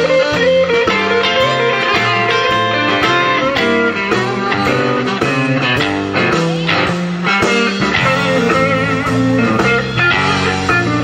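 Live band playing an instrumental passage of a blues-rock song, led by guitar over a walking bass line.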